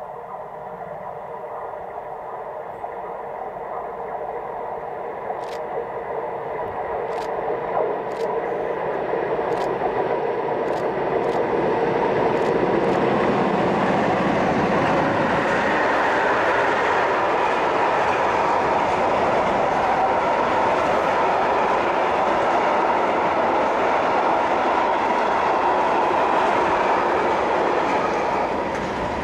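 MLW diesel locomotive hauling a container freight train, its engine growing louder as it approaches and passes about twelve seconds in, with a string of sharp clicks as it nears. Then a steady rumble and clatter of wagons rolling by.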